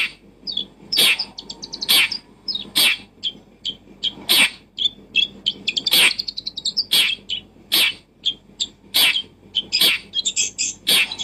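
Bird chirping: quick series of short high chirps and brief trills, broken by sharp clicking calls about once a second.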